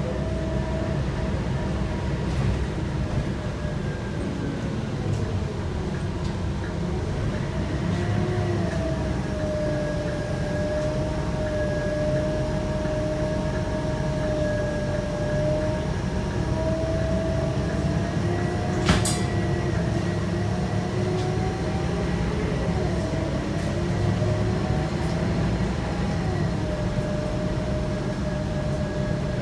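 Scania K230UB bus heard from inside while under way: its 8.9-litre five-cylinder engine and ZF six-speed automatic driveline give a steady low rumble with a whine that drifts slightly up and down in pitch. A single sharp click comes about two-thirds of the way through.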